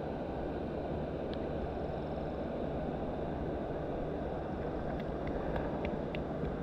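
Steady rushing of river current, low and even, with a few faint ticks near the end before it cuts off suddenly.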